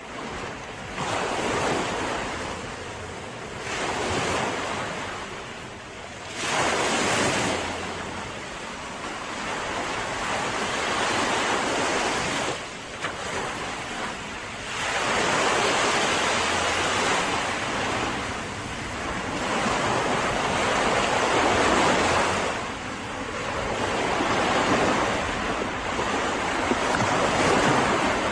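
Mediterranean sea waves breaking and washing onto a beach, the surf swelling and falling back every few seconds.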